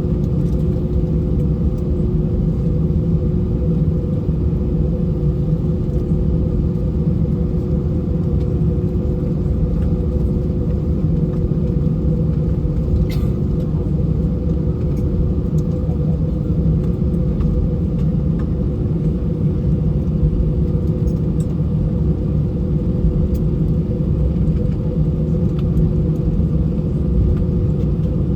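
Steady low rumble and hum inside an Airbus A319's passenger cabin as its CFM56 engines run at idle while the airliner taxis in after landing. A single light click about halfway through.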